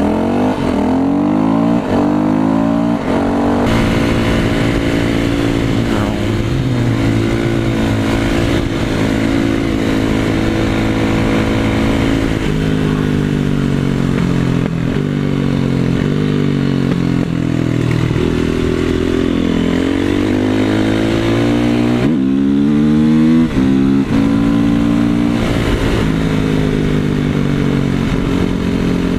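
2008 Yamaha WR450F's single-cylinder four-stroke engine under way, its note climbing under throttle and dropping back at each gear change, with stretches of steady cruising in between.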